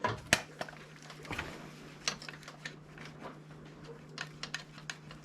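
Irregular light clicks and taps of hand tools and metal parts being handled on the car's engine, over a steady low hum.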